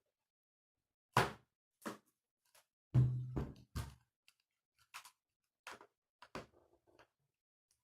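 A string of short knocks and taps, about eight in all, with the loudest thump about three seconds in.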